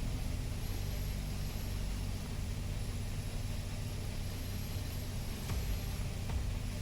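Piper Archer II's four-cylinder Lycoming engine and propeller droning steadily, heard inside the cockpit, over a hiss of rushing air.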